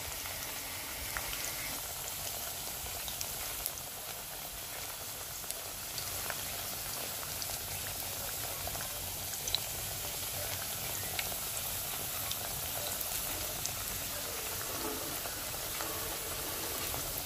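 Green plantain halves frying in hot oil in a pot: a steady sizzle with scattered small pops throughout.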